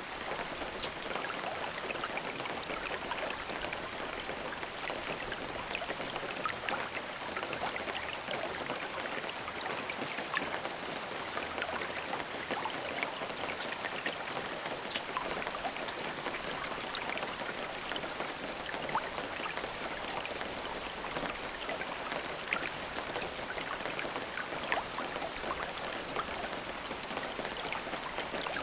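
Steady rain falling, a continuous hiss of drops with many small individual drop ticks scattered through it.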